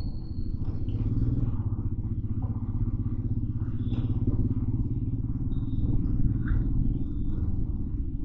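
Motorcycle engine running steadily while riding in city traffic, a continuous low rumble.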